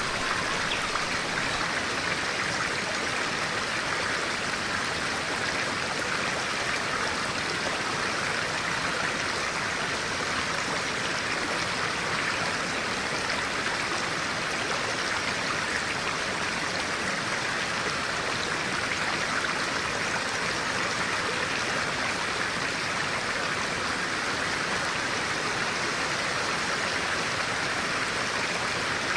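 Clear stream water flowing in a steady, even rush of water noise, with no distinct splashes or changes.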